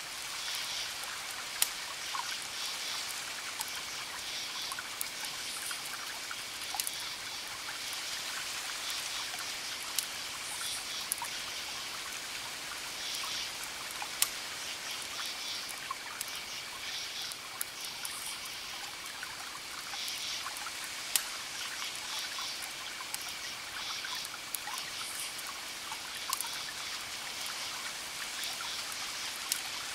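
Crackling wood fire: a steady hiss with sharp pops every second or two. Repeated high chirping runs underneath.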